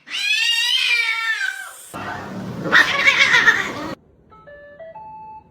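A cat meowing: one long, drawn-out call that bends in pitch, followed by about two seconds of a harsh, noisy sound. A few faint short musical notes come near the end.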